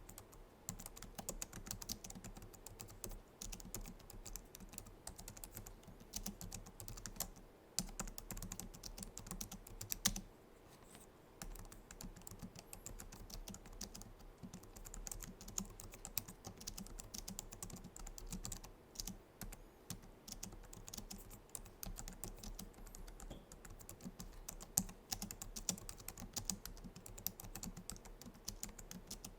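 Typing on a Logitech MX Keys keyboard's low-profile scissor-switch keys: a steady, rapid run of keystroke clicks, with a short pause about ten seconds in.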